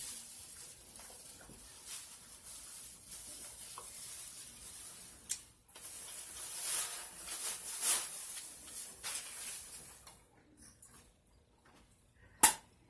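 Close-up chewing and crunching of a lettuce-wrapped bean burger, crackly and uneven, in two long stretches with a short break about halfway. A single sharp click near the end.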